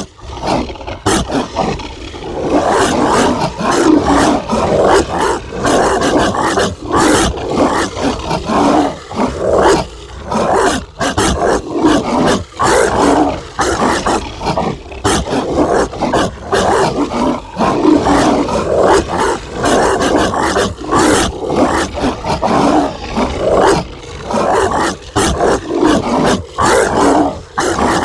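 Zombie dog barking sound effect: harsh, aggressive dog barks and snarls, layered and nearly continuous with only brief gaps.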